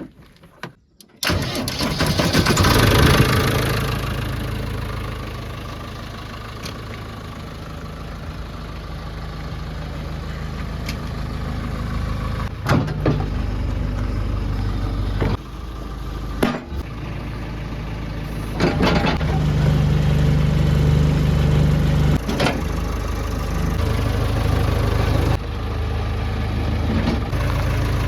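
A diesel engine starts about a second in, then runs with the revs rising and falling several times.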